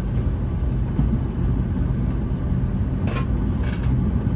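Boeing 757-200 heard from the passenger cabin: a steady low rumble of the engines and airframe at low power as the jet taxis before takeoff. A brief rattle comes about three seconds in.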